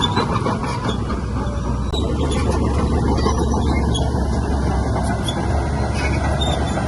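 Heavy diesel earthmoving machinery running steadily, a continuous low engine rumble with some higher mechanical squeal and rattle.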